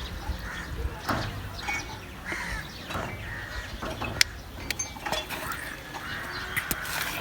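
Chickens clucking and calling in short repeated calls, with a few sharp clicks.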